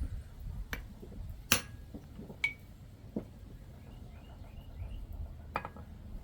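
Five scattered light metal clinks and taps, a second or so apart at first, one of them ringing briefly.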